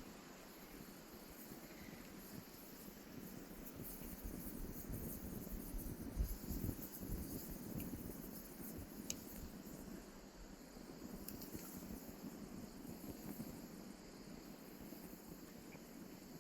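Wood fire burning, its firewood not fully dry, with a low rushing sound that swells for a few seconds in the middle and a few sharp crackles. Insects chirp steadily in the background.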